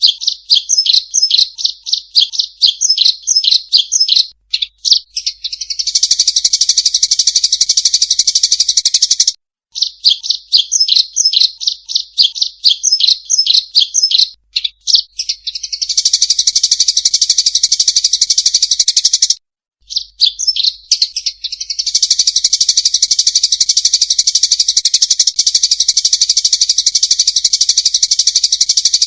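Eurasian tree sparrows giving agitated fighting calls: rapid strings of sharp chirps alternating with long, fast, buzzing trills. The sound cuts off abruptly twice, like an edited loop.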